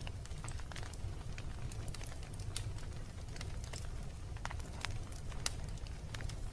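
Wood fire burning in a fireplace: many sharp crackles and pops at irregular intervals over a steady low rumble of the flames.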